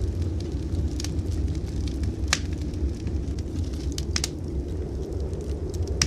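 Wood fire in a fireplace crackling, with a few sharp pops, the loudest about two seconds in and just after four seconds, over a steady low rumble.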